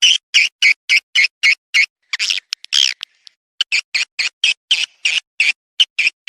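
Recorded swiftlet lure call: rapid, sharp, high chirps repeated about four times a second, with a short pause about three seconds in before the chirping resumes. This is the kind of call played to draw swiftlets into a nesting house.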